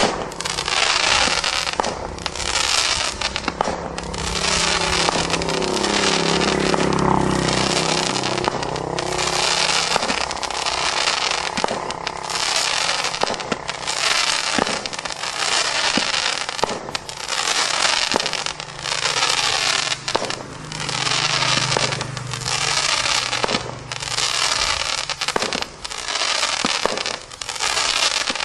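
'Fishes & Seahorses' firework by Jonathans Fireworks firing shot after shot, about one a second, each burst breaking into a dense crackling fizz.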